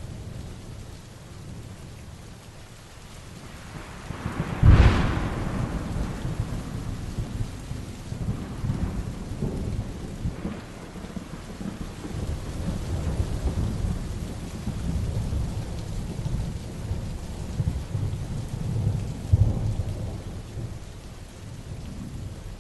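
Heavy rain with thunder: a sharp close thunderclap about five seconds in, then long low rumbling, with another loud peel of thunder near the end.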